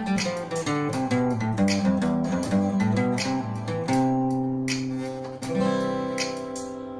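Acoustic guitar playing a quick run of single picked notes, then a chord struck about four seconds in and another about a second and a half later, left to ring and fade out.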